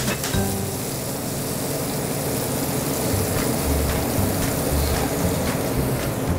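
Chopped red onion sizzling steadily in hot olive oil in a frying pan as it is sautéed to brown, stirred with a spatula, which gives a few faint scrapes.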